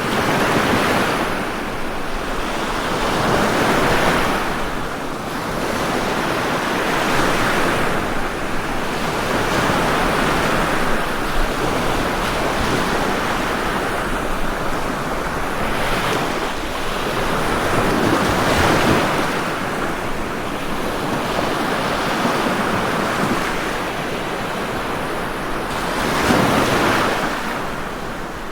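Ocean waves breaking and washing up on a shore, a continuous surf that swells and ebbs every few seconds.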